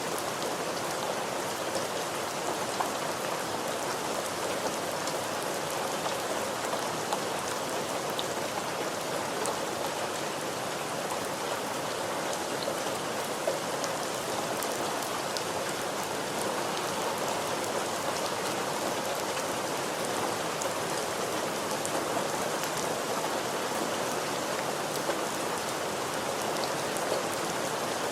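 Steady rain falling, an even hiss with many small individual drops ticking on a surface.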